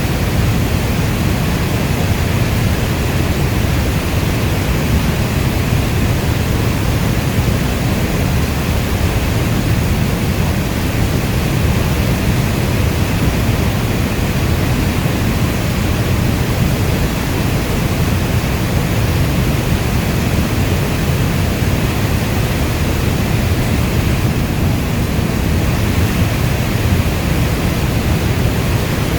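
Steady heavy rain ambience: a deep, even rushing noise with no single drops, thunder or other events standing out.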